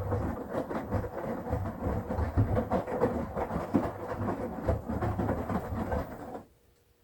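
Front-loading washing machine drum (Midea 13 kg) tumbling a wet load of laundry in the pre-wash: a dense, steady run of rumbling and rapid knocking that stops suddenly about six and a half seconds in as the drum halts.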